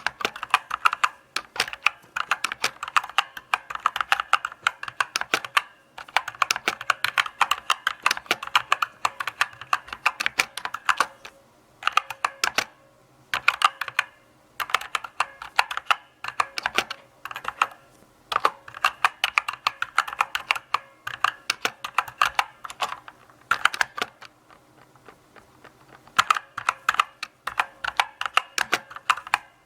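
Mechanical keyboard being typed on, keystrokes clicking in runs broken by several short pauses, the longest about two seconds late on.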